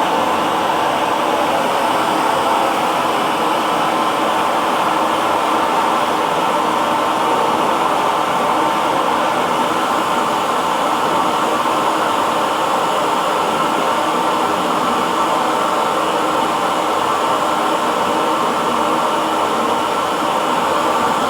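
Handheld hair dryer running steadily: a constant fan-and-airflow whir, most of its energy in the middle of the range, with no change in speed.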